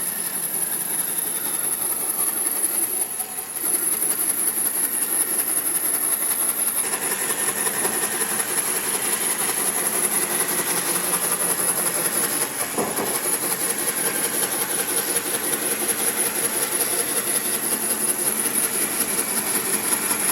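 Woodworking power tool running steadily, a dense mechanical noise with a high whine, dipping briefly about three seconds in.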